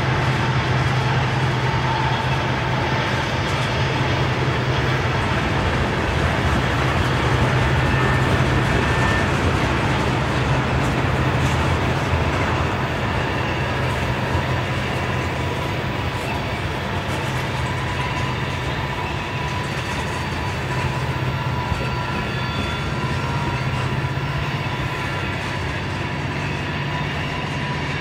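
A freight train of loaded crude-oil tank cars rolling past: a steady rumble and rattle of steel wheels on rail, easing off slightly in the second half, with a few faint thin high tones at times.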